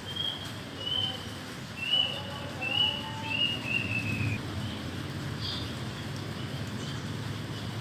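A songbird whistling a run of about six clear notes, each under a second long, the last ones falling slightly, with a few fainter notes afterwards. Underneath is a steady rush of rain.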